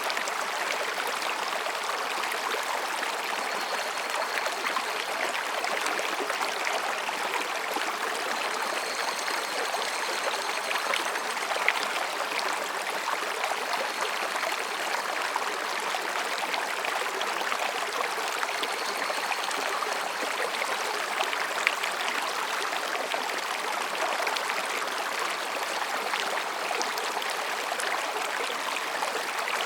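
Mountain stream flowing over and between rocks: a steady, even babbling wash of water. Faint high calls of higurashi cicadas come and go in the background.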